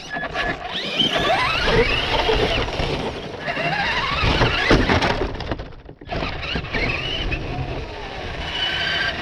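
RC car's motor whining up in pitch as the car speeds up, twice, over a constant rumble and hiss of wheels on the ground. The sound drops away briefly about six seconds in, then picks up again.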